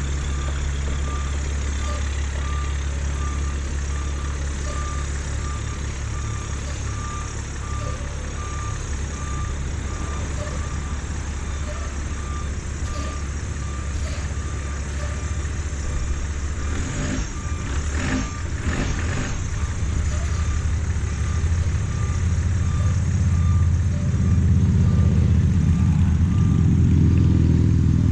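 Large diesel vehicle running while its reversing alarm beeps steadily, about twice a second. The engine grows louder toward the end.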